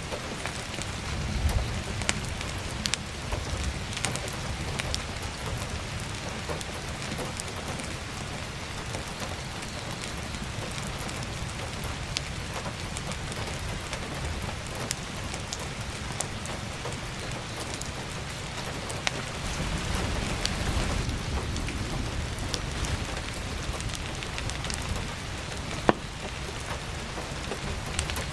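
Heavy rain falling steadily, with scattered sharp crackles and pops from burning firewood; a low rumble swells about twenty seconds in, and one louder pop comes near the end.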